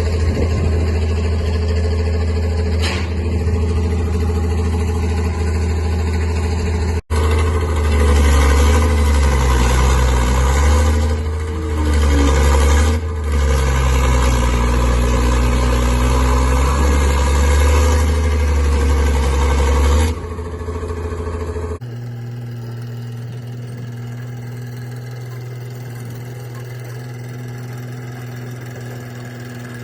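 Small crawler tractor's engine running and working, its pitch rising and falling under load. About three quarters of the way through the sound changes to a quieter, steady engine hum.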